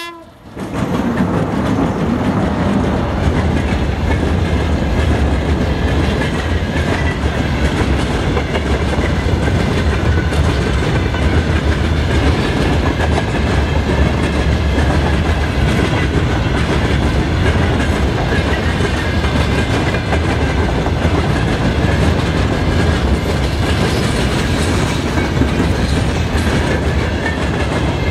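A 2ES7 electric locomotive and its long freight train of open wagons passing close at speed. Steel wheels rumble and clatter on the rails in a loud, steady roll that builds within the first second as the locomotive goes by, then holds as the wagons stream past.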